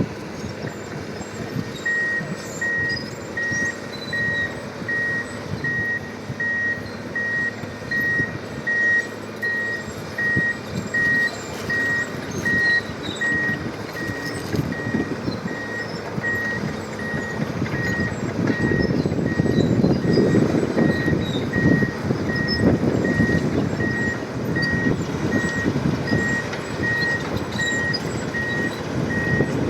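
A Liebherr bulldozer's diesel engine running under load, with its reversing alarm beeping at a steady, even pace. The engine grows louder about two-thirds of the way through.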